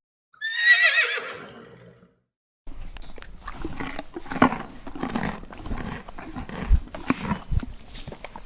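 Horse whinnying: one quavering call that falls in pitch over about a second and a half. About a second later comes several seconds of scuffling noise with scattered knocks and low thumps.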